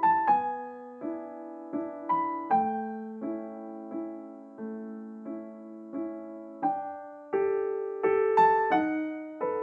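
Background piano music: a gentle, slow melody of single notes and chords, each struck note ringing and fading.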